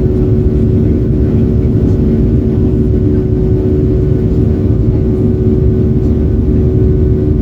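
Cabin noise of a Boeing 737-800 in flight from a seat near the wing: the steady roar of its CFM56 engines and the airflow, with a low, even hum.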